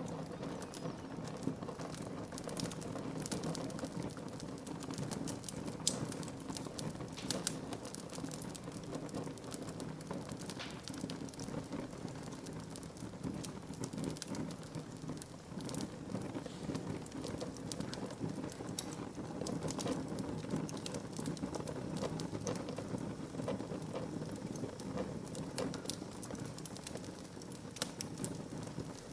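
Wood fire burning in a fireplace: a steady low rush of flame under frequent small snaps and pops of crackling wood, with a few sharper pops scattered through.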